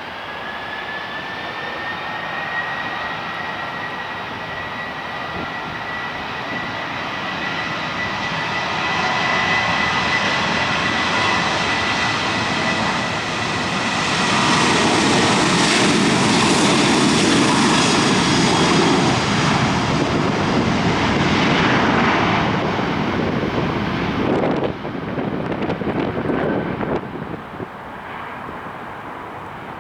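Cessna Citation Mustang's twin turbofan engines spooling up and running at takeoff power: a steady high whine over a rising jet roar that is loudest past the middle, then falls away sharply about 25 seconds in, leaving a fainter, uneven rumble.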